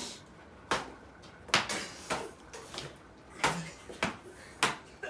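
A series of about seven sharp knocks at uneven intervals, with short pauses between them.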